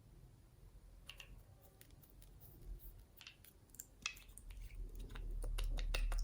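Slime being squeezed and worked by hand, giving scattered sticky clicks and crackling pops that come thicker near the end, along with a low rumble of handling.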